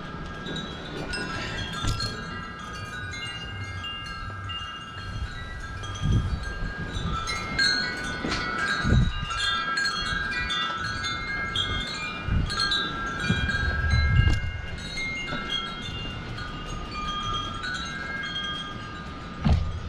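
Wind chimes ringing irregularly in gusty wind, many overlapping metallic notes, with wind buffeting the microphone in gusts.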